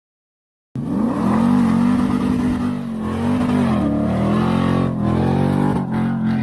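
Silence, then from under a second in a car engine running loud and steady, its pitch rising and dipping a few times as it accelerates.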